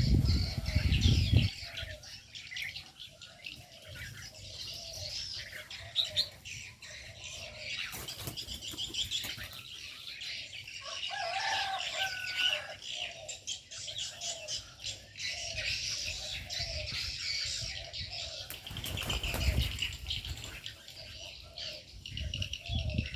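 Many aviary birds chirping and calling together, with a lower call repeating steadily beneath the chirps. Bursts of wing flapping come near the start and again about 19 seconds in.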